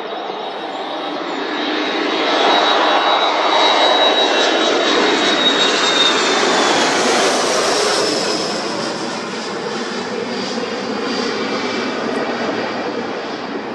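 Jet2 Boeing 737 jet engines at takeoff power as the airliner departs: a loud swelling rush with a high whine that slides down in pitch as it passes, then eases off.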